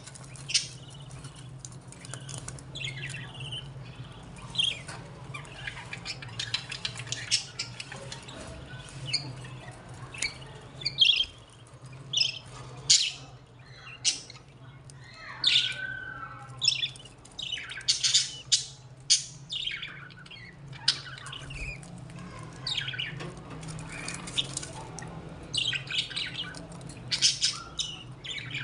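Budgerigars chattering, with rapid high chirps and harsh squawks coming in irregular bursts, over a steady low hum.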